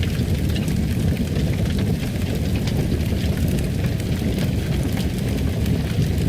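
Wood fire crackling in a fireplace: a steady low rumble with frequent small pops and crackles scattered through it.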